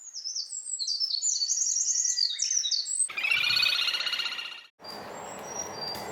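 Eurasian wren singing a fast, high-pitched song of rapid descending notes, followed about three seconds in by a little grebe's loud pulsing trill that cuts off abruptly. After the cut, short high bird notes sound over a steady background noise.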